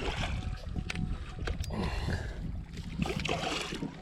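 Water sloshing and splashing around a kayak in swells of rushing noise, with a few sharp clicks, over a low rumble of wind on the microphone.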